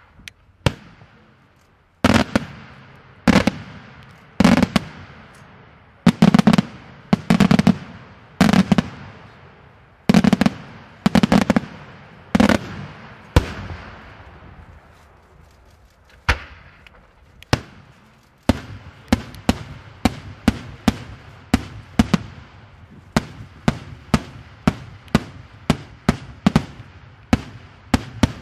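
Daytime aerial firework shells bursting: a string of loud bangs about a second apart, each trailing off in a long echo. After a short lull with two single bangs, a quicker run of sharper cracks, two or three a second, fills the last third.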